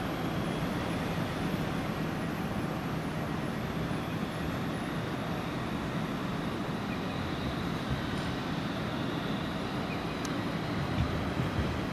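Steady rumble of a vehicle running along the street, with a faint low hum and a few light clicks.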